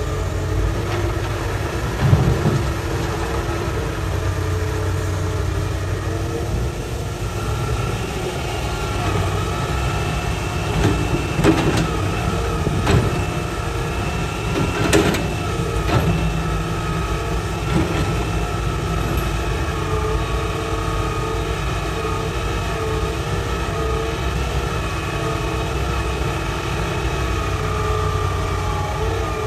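A Hitachi excavator's diesel engine running steadily. Several sharp knocks come through it as the bucket works rock, one about two seconds in and a cluster of them in the middle.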